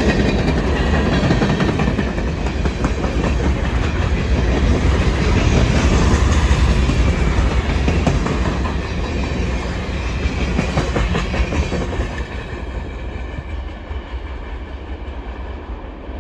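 Freight train cars rolling past on the rails: a steady heavy rumble with wheel clatter, fading over the last few seconds.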